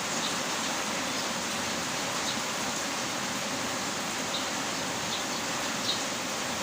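Heavy rain falling as a steady, even hiss, with a few sharper drop ticks standing out now and then.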